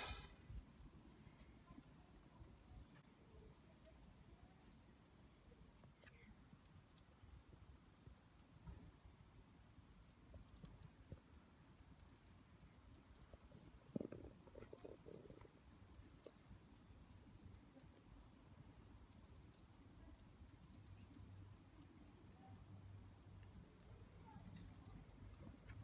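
Near silence with faint insects chirping in short, high trilling bursts every second or so, and a single knock about fourteen seconds in.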